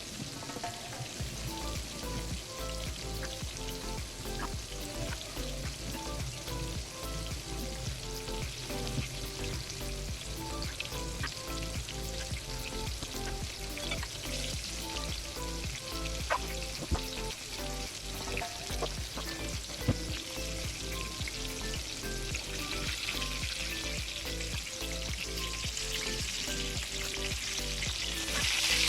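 Flour-coated chicken fillets shallow-frying in hot oil in a cast iron skillet: a steady sizzle with a few sharp pops, growing louder near the end.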